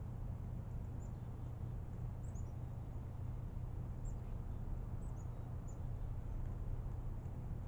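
Starlings giving short, faint, high-pitched chirps, each sliding down slightly and scattered across several seconds, over a steady low rumble.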